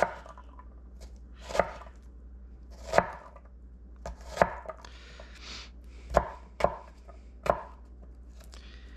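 Kitchen knife chopping onion on a cutting board: about eight single cuts at an unhurried, uneven pace, roughly one a second.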